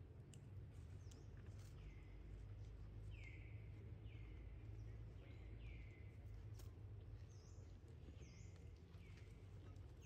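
A bird calling over and over, faintly: short downward-sweeping notes at uneven spacing, roughly once a second, over a low outdoor rumble and a few soft clicks.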